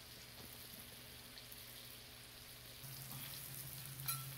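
Redfish fillets sizzling faintly in melted butter in a cast-iron skillet. A low steady hum comes in about three seconds in, and there is a single click near the end.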